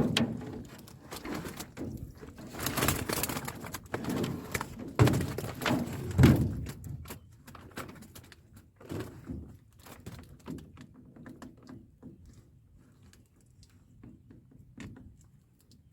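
Barb fish tipped out of a fish trap into the bottom of a boat: a jumble of rattling, flapping and thuds for the first several seconds, with two heavier thumps around five and six seconds in. Then come scattered, fainter knocks and flaps as the fish settle.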